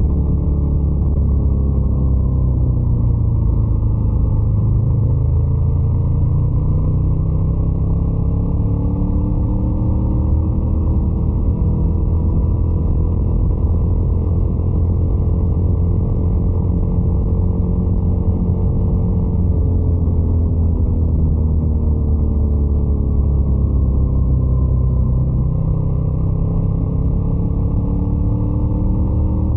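Motorcycle engine running while riding, its engine speed easing off a few seconds in, climbing gradually, easing again past the middle and picking up near the end.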